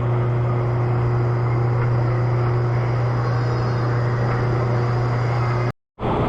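Steady low mechanical drone that holds one pitch, broken by a moment of dead silence near the end, where the recording cuts.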